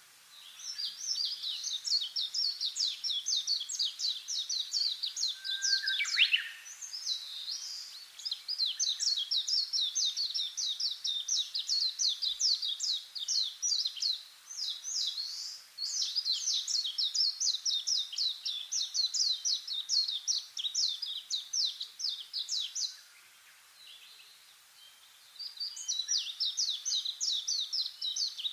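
A small songbird singing long runs of rapid, high chirps, about seven a second. Each run lasts several seconds, with short pauses between them, and a single lower falling note comes about six seconds in.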